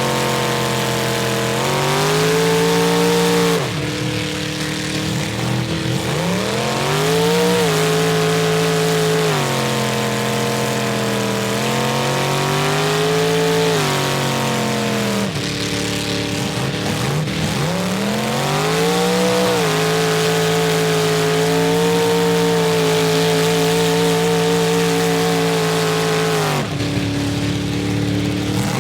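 Mud truck engines revving hard, the pitch climbing, holding and dropping again and again as the throttle is worked, with more than one engine overlapping at times.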